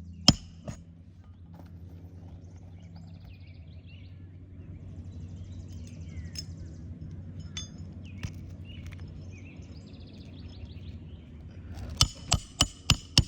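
Hand hammer driving a roofing nail into an asphalt shingle: one sharp blow just after the start, then five quick blows near the end, over a steady low hum.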